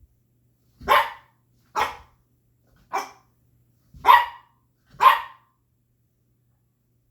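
A puppy barking five times, roughly one sharp bark a second.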